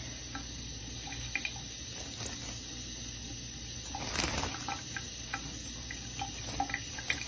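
Water running steadily from a sink tap while a pet bird bathes under the stream, with a few faint short splashes.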